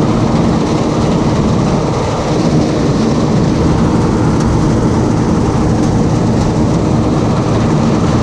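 Bizon Z056 combine harvester running steadily under load while harvesting grain: a loud, even engine drone with the threshing machinery.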